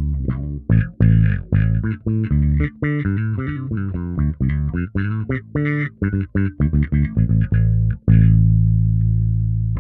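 Electric bass played through a FLAMMA FC11 envelope filter / auto-wah pedal: a run of quick plucked notes, then one long low note held from about eight seconds in.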